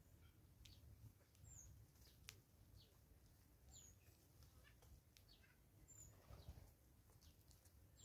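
Faint woodland birdsong over near silence. A bird repeats a short, high chirp that drops slightly in pitch about every two seconds, among scattered faint ticks and chirps.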